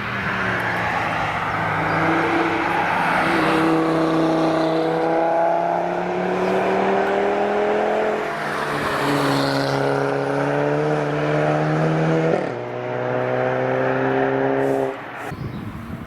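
A car engine under hard acceleration on a race track. Its pitch climbs steadily, then drops at two upshifts, about eight and twelve seconds in. The sound falls away suddenly near the end.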